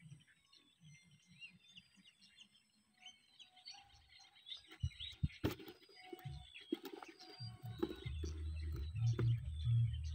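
Small birds chirping and calling in quick, short notes, with a couple of sharp clicks near the middle. In the last few seconds a low, steady hum comes in underneath.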